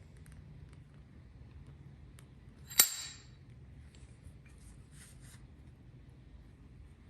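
A single sharp metallic strike about three seconds in, ringing briefly, followed by a few light clicks and scrapes of metal parts being handled.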